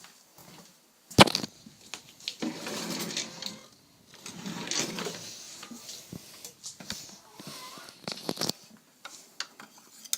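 Packaging and a product being handled during unboxing: a sharp knock about a second in, two stretches of rustling over the next few seconds, then a cluster of clicks and taps near the end.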